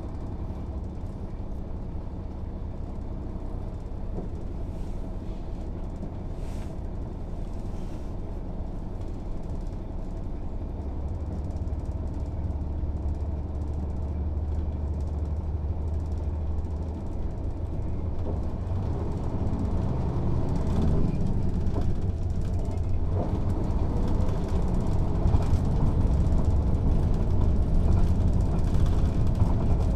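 Mercedes-Benz O 407 city bus's diesel engine running in service, a steady low drone that grows louder over the second half as the engine works harder.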